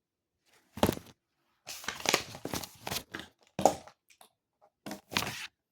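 Close handling noise: a series of short, irregular rustling and crinkling bursts, about eight in all, starting almost a second in after silence.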